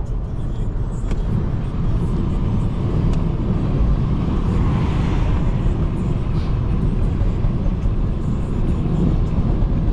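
BMW 540i sedan driving on a wet road: a steady low rumble of engine and road noise, with a brief rise in hiss about halfway through.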